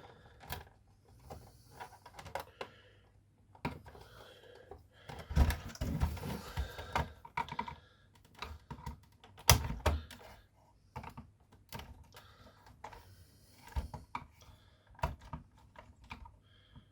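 Flathead screwdriver prying at the plastic clips of a Nespresso Citiz coffee machine's upper cover: irregular plastic clicks, scrapes and knocks, busiest about five to seven seconds in, with a sharp click near the ten-second mark.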